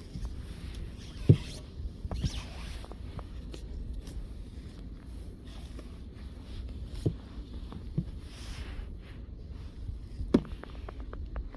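Snow brush sweeping snow off a car: scraping swishes broken by a few sharp knocks, the loudest about a second in and another near the end.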